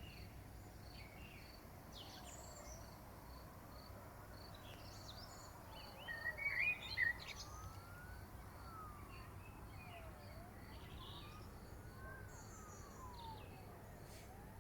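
Several birds singing and chirping, loudest in a short burst about six to seven seconds in, over an insect chirping evenly about twice a second. A distant siren wails slowly up and down from about two seconds in.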